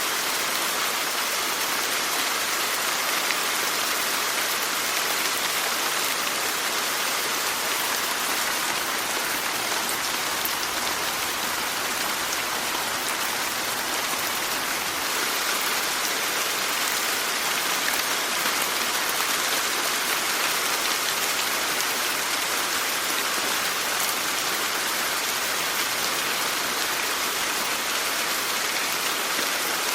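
Steady rainfall: an even hiss of rain on surfaces, with faint scattered drop ticks.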